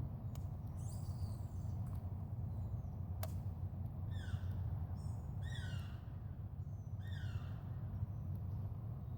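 A bird calling three times, each call a short note sliding down in pitch, about a second and a half apart, over a steady low hum. One sharp click comes shortly before the calls.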